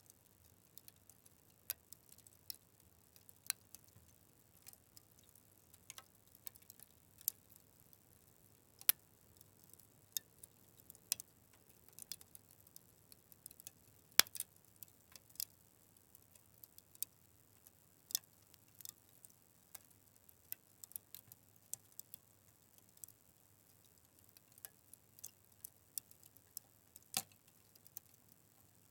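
Wood fire crackling: irregular sharp snaps and pops over a faint hiss, with a louder pop about 9 seconds in and the loudest about 14 seconds in.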